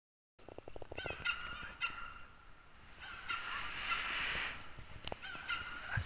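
Birds honking in short, repeated calls that come in clusters, with a rushing noise through the middle.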